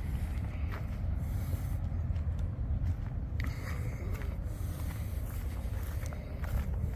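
Wind rumbling on the microphone, with a few faint footsteps on the ground.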